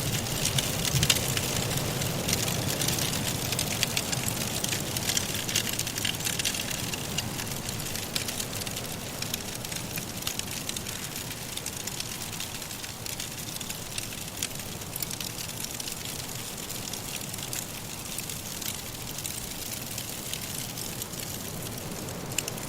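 Wood fire crackling in a fireplace, with many small sharp pops over a steady soft hiss of blizzard wind; the pops come thicker in the first half and thin out later.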